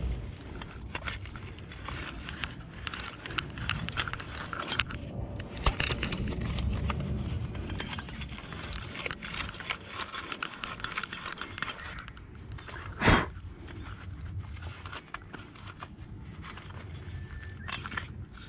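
Scraping and clinking handling noises, irregular and stop-start, with one sharp knock about thirteen seconds in.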